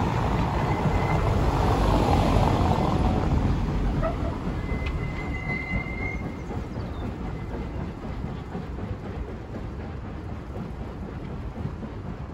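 Steam train of carriages rumbling along the track as it pulls away, loudest about two seconds in and then slowly fading into the distance. A brief high squeal sounds about five seconds in.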